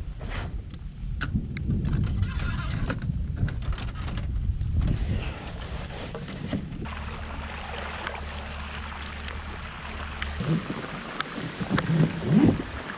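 Rain hissing steadily as a thunderstorm moves in, with wind rumbling on the microphone. A few loud knocks come near the end.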